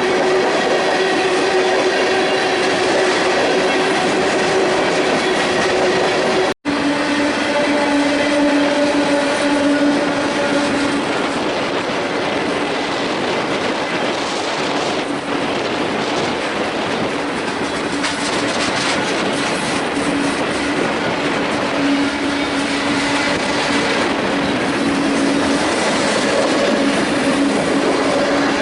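BNSF freight train rolling past, its cars' wheels clattering over the rails, with a steady tone running over the top. The sound cuts out for an instant about six and a half seconds in; after that the tone sits a little lower.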